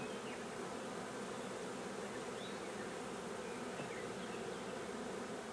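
A swarm of honey bees buzzing steadily around an open hive box, a dense continuous hum with a few individual bees whizzing past.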